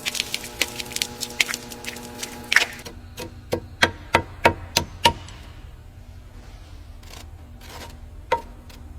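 A string of sharp, irregular clicks and knocks, dense at first and thinning out after about five seconds, over a steady low hum for the first three seconds.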